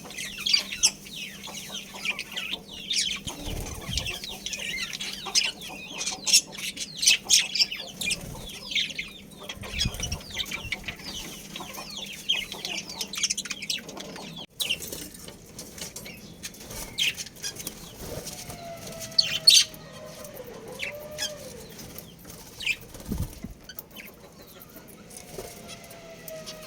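Many small birds chattering in rapid, high chirps, with wing flutters. About halfway through the sound changes abruptly; after that the chirps are sparser and a few faint, drawn-out gliding calls come in.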